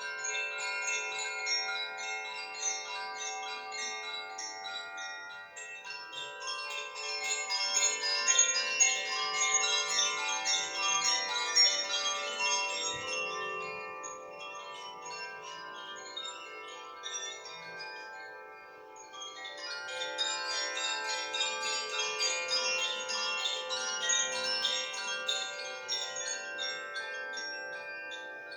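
Koshi chimes, handmade wind chimes with metal rods and a bamboo sound box, tinkling continuously as the clapper strikes the rods, leaving a dense wash of many overlapping ringing tones. The playing swells louder twice, easing off in between, around 14 to 19 seconds in.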